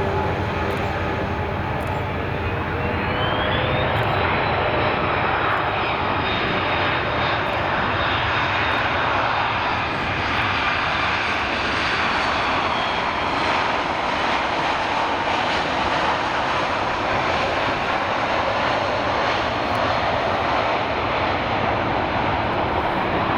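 Jet airliner's engines passing close by, loud and steady throughout, with a high whine that rises over the first few seconds, holds, then slowly falls.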